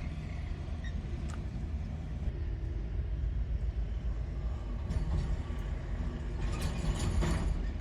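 Vehicle engine running steadily with a low drone, with a few light clicks and knocks.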